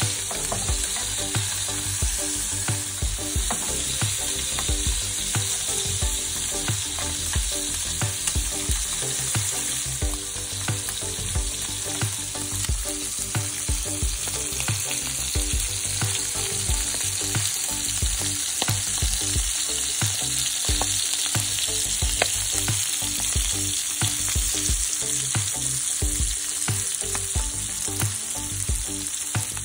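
Silver trout fillets pan-frying in butter and oil with rosemary and garlic, sizzling steadily with frequent crackles.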